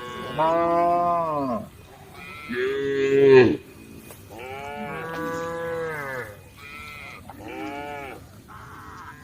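Cows mooing: a run of about five separate moos, each rising then falling in pitch, the loudest about three seconds in and the last ones shorter and fainter.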